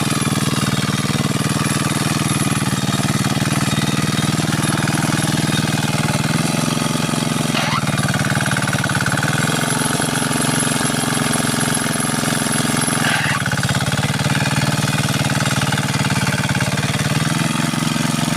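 Kuliglig (two-wheel hand tractor) engine running with a rapid, pulsing beat, its tone shifting a few times.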